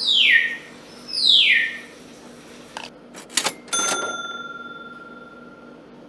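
Two quick falling swishes, then a few sharp clicks and a bright bell-like ding that rings out and fades over about two seconds, like edited-in sound effects.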